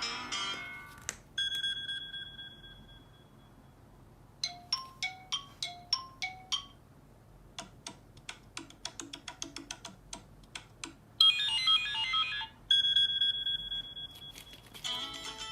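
A string of different electronic sound effects and ringtone-like tones: a ringing beep, a short melody of plucked notes, a quick run of ticking notes, a loud warbling trill like a telephone ring, another beep, and a run of chimes near the end, with short quiet gaps between them.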